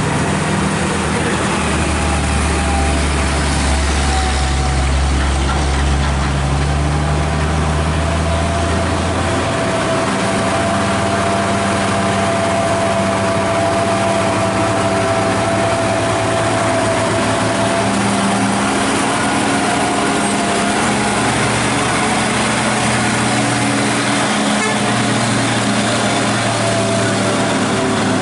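Truck engines running close by in passing traffic. A deep, low engine note sounds from about two seconds in until near ten seconds, and after that the engine pitches shift up and down as vehicles work past.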